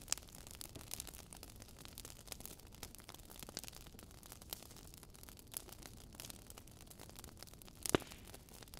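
Fireplace crackling: irregular small pops and snaps over a low steady hiss, with one louder pop near the end.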